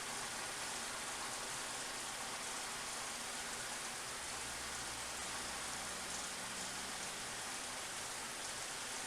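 1999 Suzuki Grand Vitara's 2.5-litre V6 idling, heard as a steady, even hiss with a faint low hum. The mechanic has traced a misfire to its cylinder 2 fuel injector.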